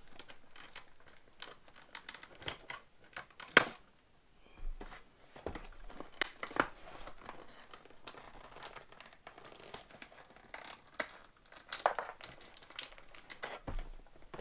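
Plastic action-figure packaging being handled as accessories are taken out: crinkling and crackling with irregular clicks and snaps, the loudest a sharp snap about three and a half seconds in.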